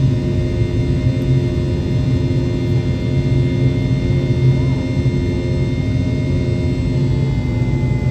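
Boeing 717 cabin noise in the climb after takeoff: the rear-mounted Rolls-Royce BR715 turbofans give a steady loud drone with several steady whining tones over it.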